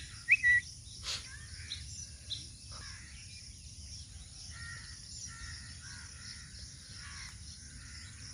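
Birds calling outdoors: a short, high two-note chirp about a third of a second in, then fainter repeated calls over a low outdoor hiss, with a single click about a second in.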